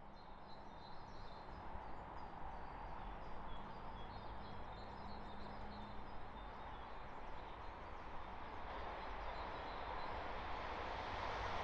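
Class 222 Meridian diesel-electric multiple unit approaching, its rumble faint at first and growing steadily louder as it nears. Birds chirp over the first half.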